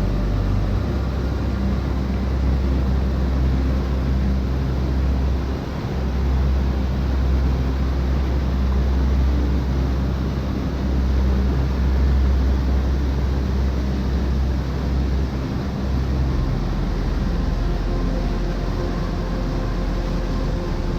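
Waterfall and river rushing: steady noise of falling water with a deep rumble underneath.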